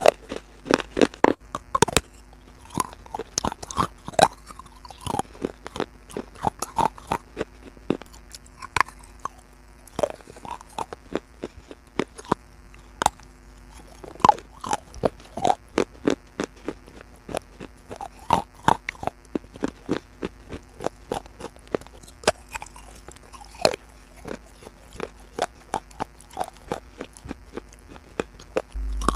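Close-miked chewing of crunchy food: dense, irregular sharp crunches and crackles of bites being chewed.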